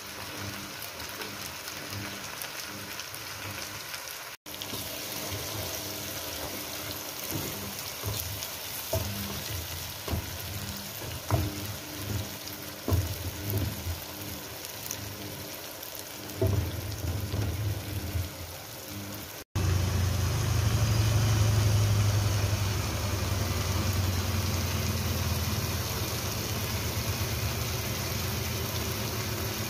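Chopped tomatoes and onions sizzling in oil in a frying pan, with a spatula stirring and scraping and knocking against the pan several times. About two-thirds of the way in, the sound switches to a louder, steady sizzle of the simmering sauce over a low hum.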